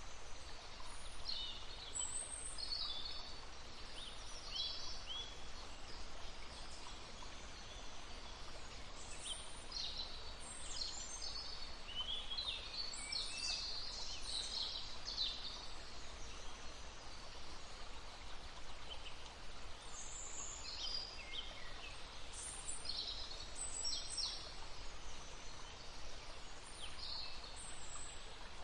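Small songbirds chirping in short, quick phrases that come and go, busiest in the middle, over the steady rush of a babbling stream.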